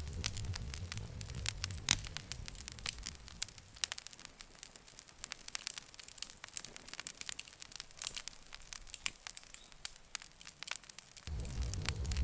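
Campfire crackling, with frequent sharp pops and snaps of burning wood. A low rush of flame under the crackle fades out a couple of seconds in and returns suddenly near the end.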